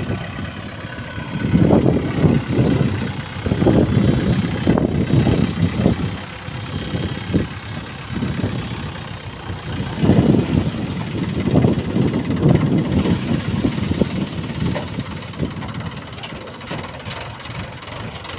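Heavy diesel engine of earth-moving machinery running, rising and falling in repeated surges as it works under load.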